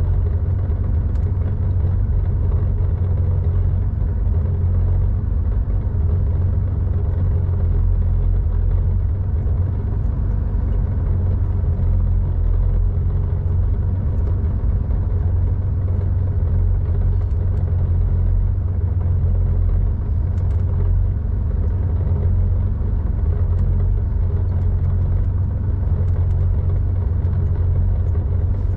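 1987 Porsche 911's air-cooled 3.4-litre flat-six breathing through a Scart two-in-one-out muffler while driving at a steady pace: a steady, deep drone with no revving.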